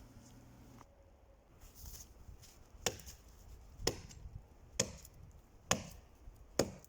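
Axe chopping into the trunk of a dry standing pine: five strokes, about one a second.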